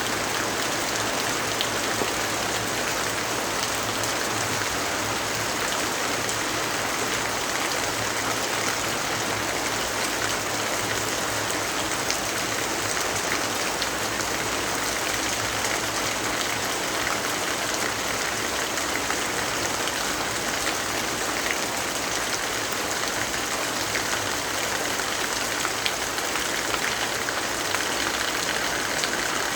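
Steady rainfall: a dense, even hiss of rain with scattered small drop ticks.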